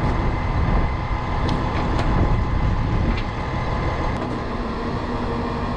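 Tow truck's engine running with its hydraulic winches reeling in the cables: a steady mechanical hum with a few light clicks.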